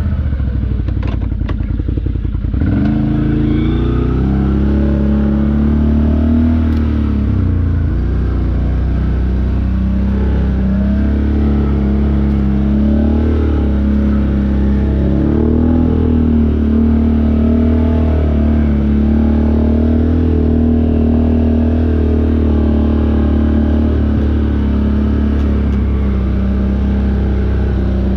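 Off-road vehicle engine running under changing throttle, its pitch stepping up about two and a half seconds in and then rising and falling. A few clattering knocks in the first two seconds.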